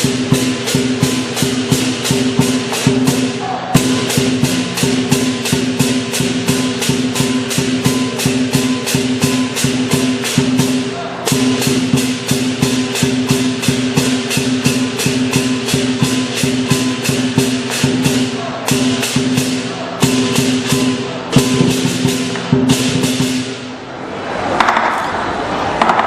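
Lion dance percussion: drum beating a rapid, steady rhythm with cymbals crashing on each stroke over a ringing gong tone. The rhythm breaks off briefly a few times and stops for a couple of seconds near the end before starting again.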